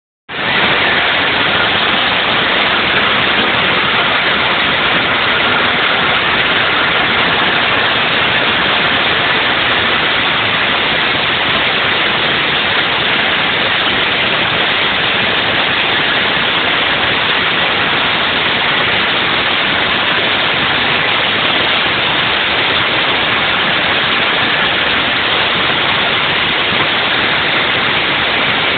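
Veterok-12 two-stroke outboard motor running on a small boat, heard as a loud, steady rushing noise with no distinct engine beat.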